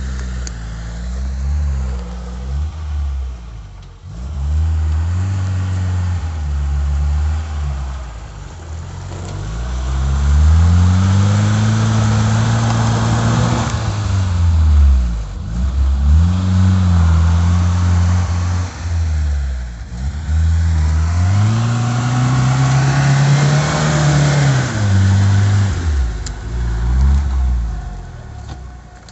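LuAZ off-roader with a VAZ-21083 1.5-litre four-cylinder petrol engine, revved up and down over and over, its pitch climbing and falling every few seconds. A rushing noise comes up along with the higher revs.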